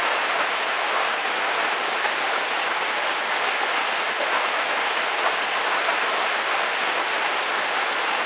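Heavy rain falling steadily on a car roof, heard from inside the vehicle: an even hiss with individual drops ticking through it.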